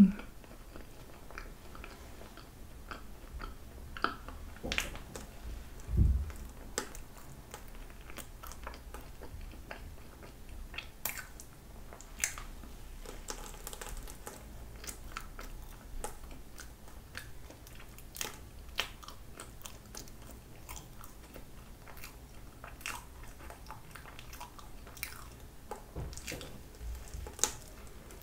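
Close-miked eating of a soft, cream-filled pandoro dusted with powdered sugar: bites and chewing, with many small wet mouth clicks and a few louder bites. One dull thump about six seconds in.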